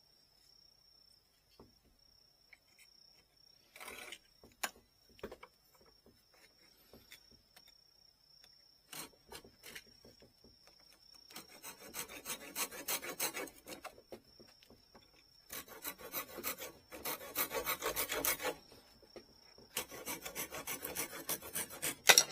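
Hand-filing a small part for a Japanese wooden fishing rod's tip: three bouts of rapid back-and-forth rasping strokes in the second half, after a quieter stretch with a few light clicks and knocks. A faint steady high whine runs underneath.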